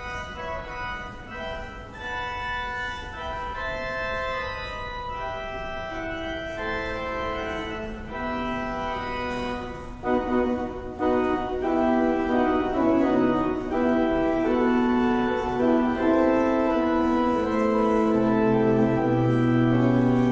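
Organ music: slow sustained chords that grow fuller and louder about halfway through, with low bass notes coming in near the end.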